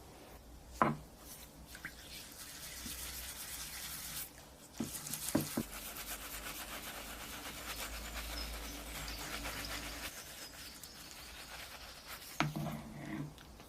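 Rapid back-and-forth hand scrubbing on the rusty pressed-steel body of a Tonka toy truck, a fast, even rasping stroke that runs for about ten seconds. A sharp knock comes about a second in, a few knocks around the middle, and a clatter near the end.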